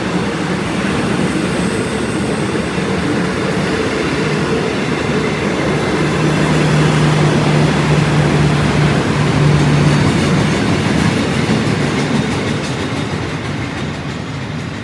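Train running past with a steady rushing rumble that swells toward the middle and eases off near the end, with a steady low hum for several seconds in the middle.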